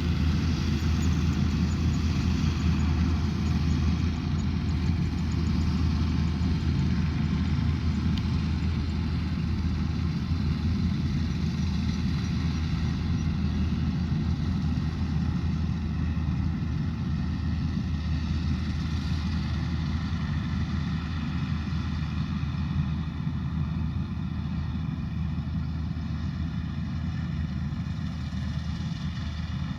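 Combine harvester's engine running steadily under load, a low even drone that eases off slightly toward the end.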